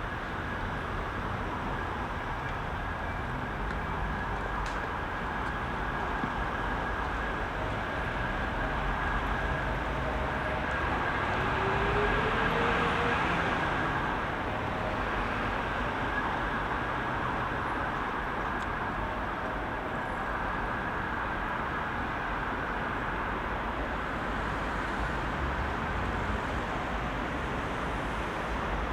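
Dense rush-hour road traffic: a steady roar of engines and tyres, swelling as a vehicle passes close about twelve seconds in, with one engine's pitch briefly rising around then.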